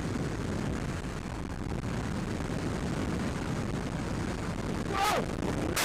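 Motorcycle riding at speed heard through a helmet camera: a rough, steady rush of wind and engine noise, with a short falling squeal about five seconds in.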